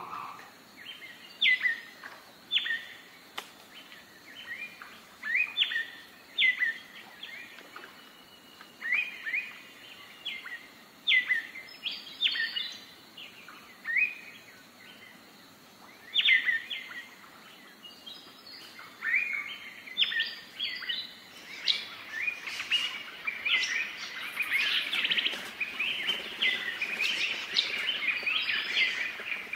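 Birds calling: short, sharp chirps repeated every second or so. About two-thirds of the way through they grow denser and overlap into a busier chorus.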